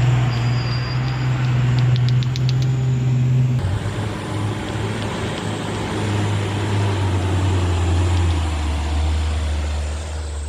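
Heavy truck's diesel engine running steadily. About three and a half seconds in the sound changes abruptly, and in the second half the engine note drops lower, as when the engine slows under load.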